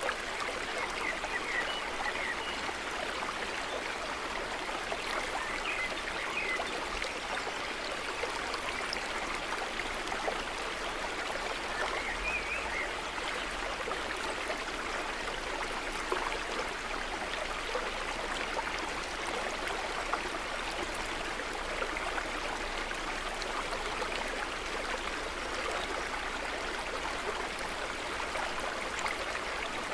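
A brook running steadily over stones, an even rushing and trickling of water. A few faint bird chirps come through in the first seconds and again about twelve seconds in.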